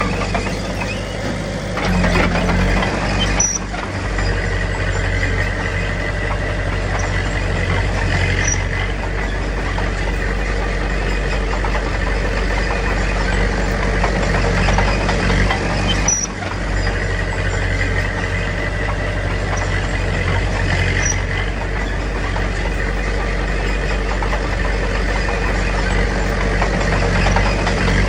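Heavy diesel engine of earthmoving machinery running steadily, with brief dips in loudness about four and sixteen seconds in.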